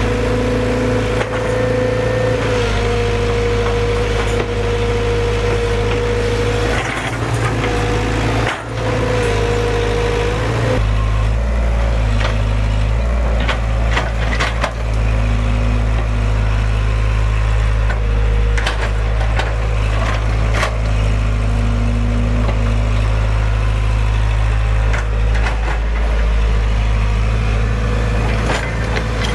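Kobelco SK115SR excavator's diesel engine running steadily, with a high hydraulic whine that stops about eleven seconds in and scattered knocks and cracks of wood.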